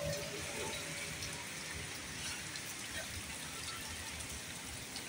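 Heavy rain falling steadily on wet dirt ground and puddles.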